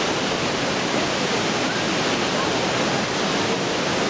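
Pailón del Diablo waterfall: a steady, loud rush of falling water.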